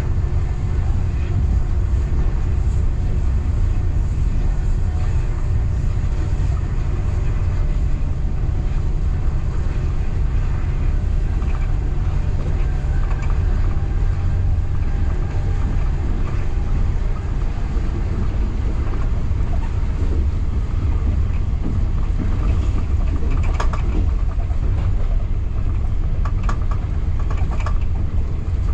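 Local passenger train running along the track, a steady low rumble, with a few sharp clicks in the last few seconds.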